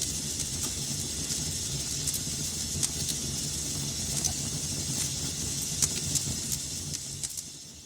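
Wood fire crackling in a fireplace: a steady hiss and low rumble with frequent sharp pops and snaps. The sound fades out near the end.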